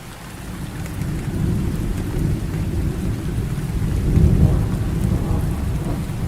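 Rolling thunder over steady heavy rain: a low rumble builds at the start and peaks about four seconds in.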